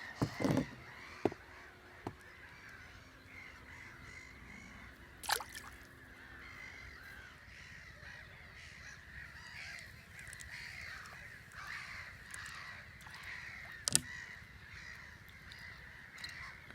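Birds calling continuously in the background, with a few short sharp clicks or knocks; the loudest comes about 14 seconds in.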